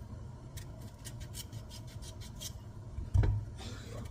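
Knife cutting up pumpkin on a cutting board: a quick run of sharp clicks, then a louder thump about three seconds in, over a steady low hum.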